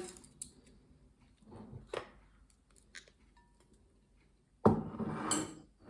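Scattered light clicks and knocks of walnuts and walnut shells, then a louder crackling, rustling noise of shells lasting about a second near the end.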